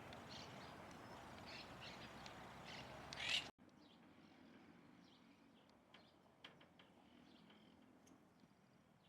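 Birds chirping in short calls over a steady background hiss, with one louder call about three seconds in. The sound then cuts abruptly to a much quieter background with only faint chirps and clicks.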